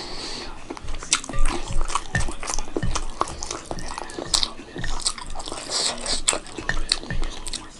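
Close-up chewing and wet mouth sounds of someone eating dal bhaat with boiled egg: irregular smacking and clicking throughout.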